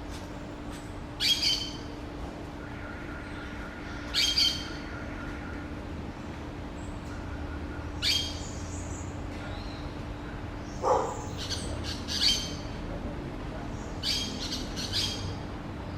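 Short, high-pitched bird calls, about eight in all, repeated every one to four seconds over a faint steady hum.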